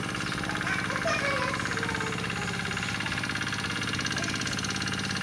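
An engine running steadily at idle, with an even, fast pulsing.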